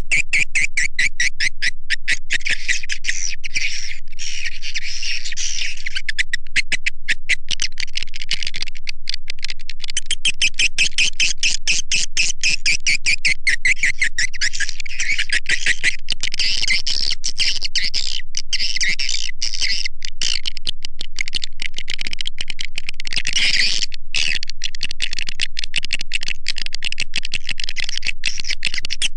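Swiftlet lure-call recording: a dense, continuous chorus of fast chirping twitters from many swiftlets, played to draw the birds into a swiftlet house. It runs without a pause and stays high-pitched.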